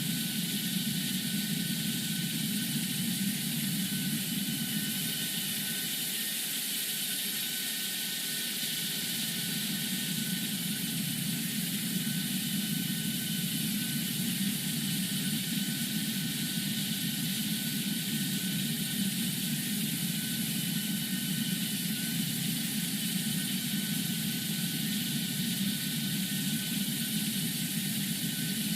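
Jet airliner taking off: steady engine and rushing-air noise throughout, with a thin, steady high whine above it.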